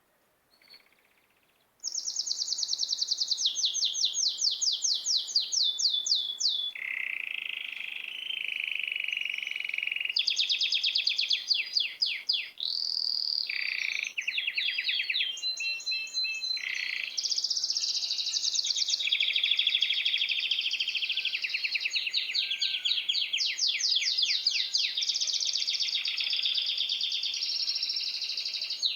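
A songbird singing a long, continuous song of fast high-pitched trills, switching from one trill to the next every second or two, starting abruptly about two seconds in.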